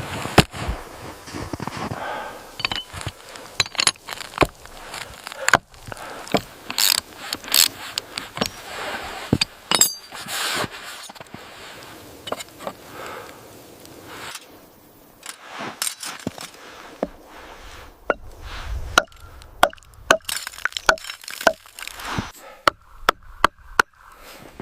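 Hand tools striking wood: a long run of sharp, irregular knocks and chops with some clinks, several blows close together in places.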